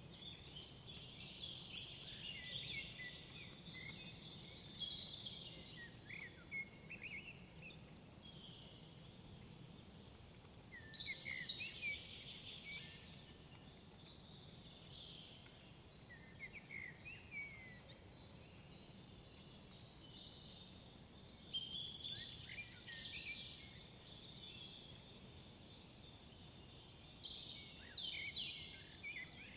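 Songbirds singing in woodland: bursts of high, quickly changing song every few seconds, over a faint low background hiss.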